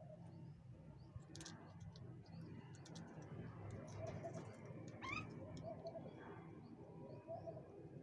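Faint bird calls over a low steady hum: short repeated notes, a few sharp clicks, and a quick rising chirp about five seconds in.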